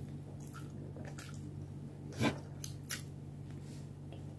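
Faint, wet mouth sounds of someone chewing sushi with a hand over the mouth: scattered soft clicks and squelches, with one louder short mouth sound a little over two seconds in.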